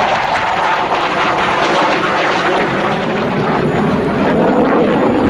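Jet noise from a JF-17 Thunder's single Klimov RD-93 turbofan: a loud, steady rushing sound with no pitched whine standing out.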